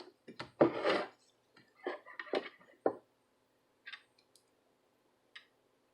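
Small clicks and taps, several in the first three seconds and two fainter ones later: a tool working a desoldered USB port loose from a circuit board.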